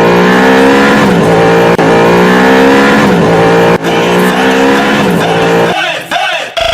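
Sports car engine running loud at high revs, its pitch dipping and climbing back twice. There is an abrupt break about four seconds in, and the engine sound fades out near the end.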